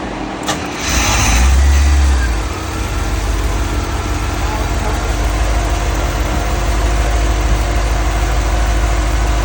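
Car engine starting about a second in, running up loudly for a moment, then settling into a steady idle. The electric radiator cooling fan is already running before the start, forced on by grounding its switch pin.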